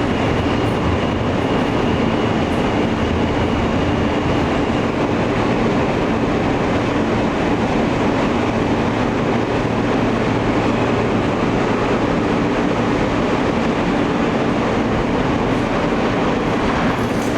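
Alstom R160A subway car running between stations, heard from inside the car: a steady, loud rumble of wheels and motors, with a low hum throughout and a faint high whine during the first few seconds.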